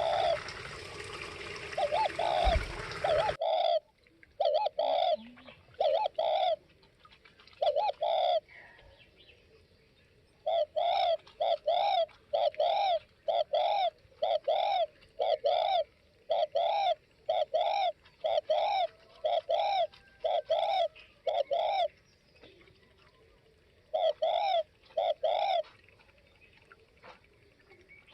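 Spotted dove cooing: short arched coo notes repeated in runs of about two a second, with brief pauses between the runs. A noisier stretch at the start cuts off after about three and a half seconds.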